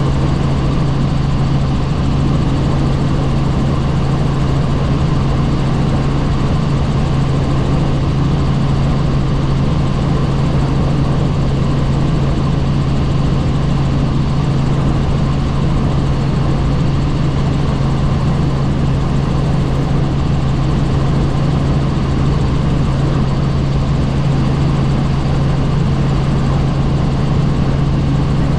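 Helicopter in flight, heard from on board: a loud, steady drone of engine, rotor and rushing air, with a constant low hum underneath that does not change.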